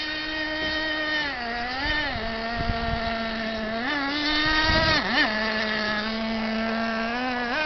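Radio-controlled catamaran boat's motor running on the water, its pitch stepping up and down several times as the throttle is worked.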